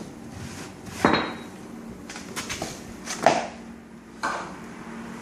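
Hard gear on a kayak being handled: three sharp knocks about a second, three seconds and four seconds in, with a few lighter clicks between them.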